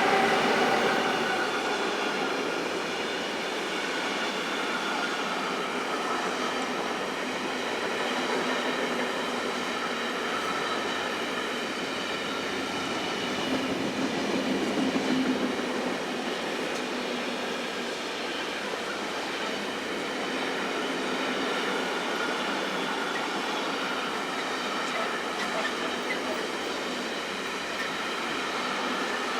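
Steady mechanical running noise: a continuous hiss with faint steady high tones, swelling slightly in loudness about halfway through.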